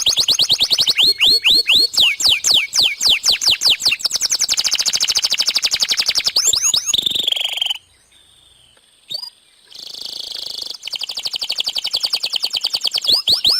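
Domestic canary singing: fast trills of rapidly repeated whistled notes and falling sweeps, breaking off for about two seconds about eight seconds in, then resuming with another fast trill.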